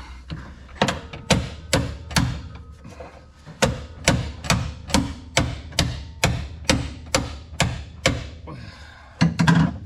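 Steel hammer blows on a hand impact driver set on a stuck transmission bolt, about two strikes a second with a short pause about three seconds in, then a quick cluster of hits near the end.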